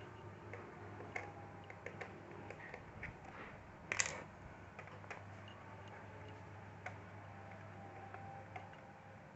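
Small scattered clicks and ticks of a small Phillips screwdriver working the bottom-case screws of a laptop, with one louder clack about four seconds in, over a steady low hum.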